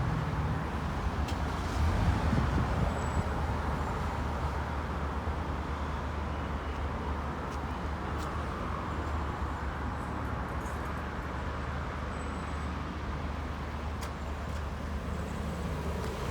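Road traffic at a junction: a steady low engine rumble from vehicles running close by, under a wash of tyre and road noise, a little louder at the start.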